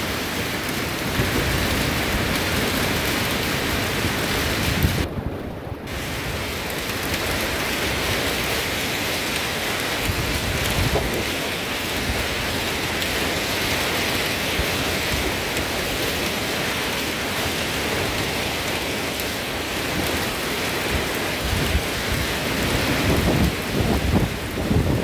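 Heavy rain pouring down steadily, with a brief dip about five seconds in and low rumbling near the end.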